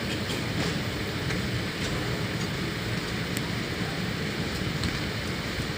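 Passenger train running: a steady rumble and rush of running noise, with a few faint clicks.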